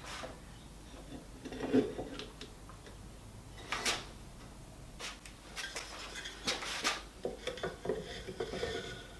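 Small wooden drawers and drawer fronts handled on the bench: scattered light knocks and clicks of wood being set down and moved, the sharpest about four seconds in and twice near seven seconds.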